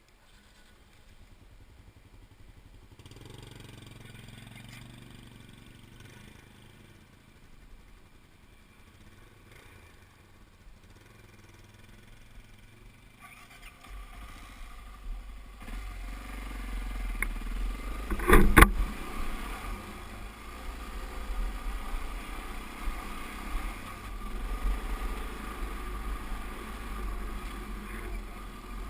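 A vehicle engine, faint at first, then running louder and steadily from about 14 seconds in, with one sharp loud knock about 18 seconds in.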